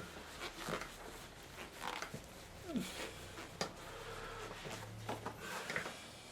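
Paintbrush working acrylic paint onto the painting surface: a string of short, scratchy strokes and light taps, with a brief falling squeak a little under three seconds in.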